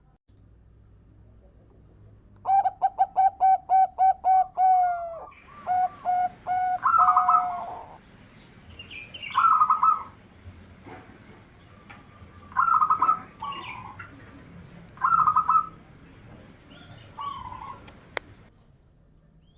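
Zebra dove (perkutut) song: a quick run of about nine short staccato coos, then further coos running into a trill, followed by several shorter trilling coo phrases a few seconds apart. A single sharp click comes near the end.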